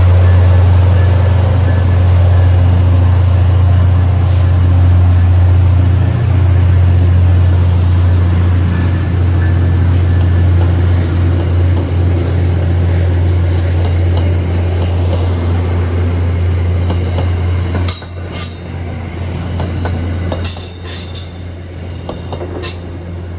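MBTA commuter train on the rails: a steady, loud low diesel rumble with wheel noise that eases off near the end, followed by a few sharp metallic clicks.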